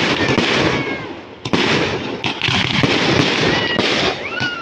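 Aerial fireworks shells bursting in a display: several sharp bangs over a continuous din of crackling and popping.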